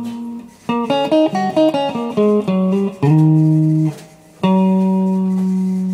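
Fender Stratocaster electric guitar being played: a quick run of picked notes, then a chord held for about a second, a short pause, and a final chord left ringing.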